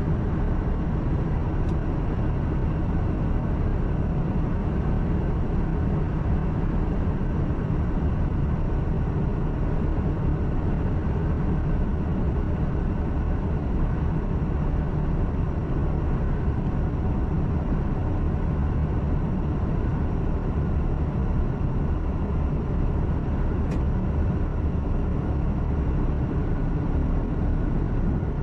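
Truck engine drone and road noise heard inside the cab while driving, steady and even throughout.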